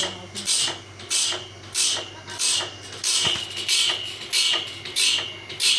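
Shivshakti automatic bandsaw blade grinder sharpening the blade tooth by tooth: a short hissing grind about every two-thirds of a second, over a steady motor hum.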